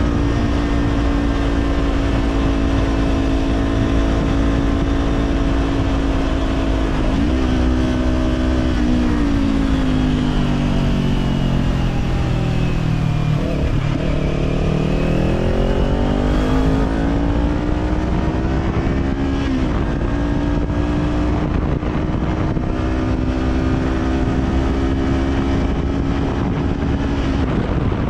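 Kawasaki Z400's parallel-twin engine through an Orion Katya slip-on exhaust, running at steady cruising revs. About nine seconds in, the revs fall away for several seconds as the bike slows, then climb back to a steady cruise. Wind rush is heard underneath.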